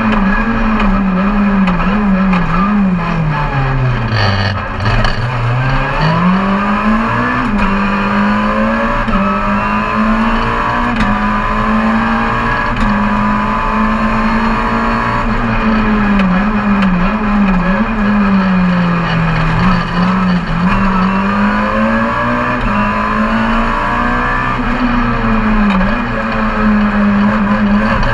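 Car engine heard from on board, running on and on with its note repeatedly rising and dipping in pitch as it accelerates and eases off. About four seconds in the revs drop deeply and then climb back up.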